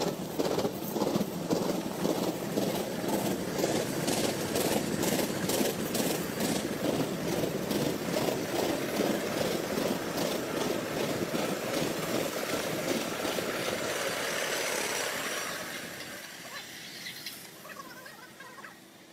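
A train running on the rails, with a dense rumble and quick repeated clattering, fading away over the last few seconds.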